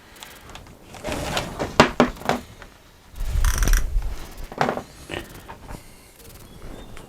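Workshop handling noise: a run of sharp clicks and knocks from tools and a wooden panel being worked, with a heavier thud and scrape about halfway through.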